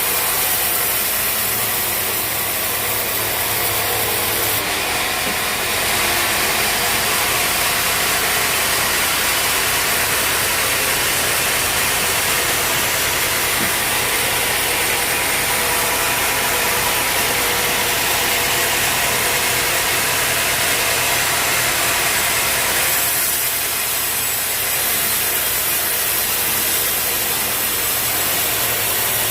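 A sawmill running steadily. From about five seconds in until a few seconds before the end, a brighter hiss rises over the engine, as the saw cuts through the log, then drops back to the plain running sound.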